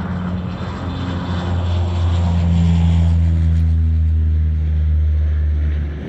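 Firefighting water bomber's propeller engine running at high power, a steady drone that swells about two seconds in and holds.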